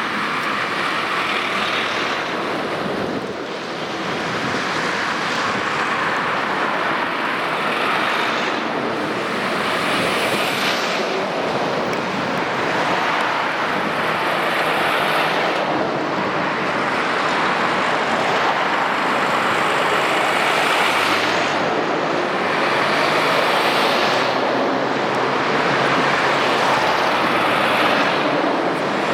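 A convoy of heavy lorries passing one after another along a main road. Their engine and tyre noise swells and fades as each truck goes by.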